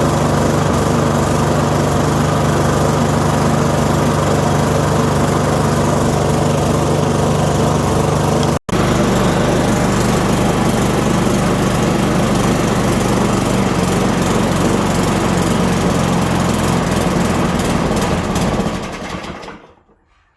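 Victa Ultralite lawn mower's 125cc Briggs & Stratton 450-series petrol engine running steadily after its carburettor has been cleaned, with a brief break about eight seconds in. Near the end the engine runs down and stops.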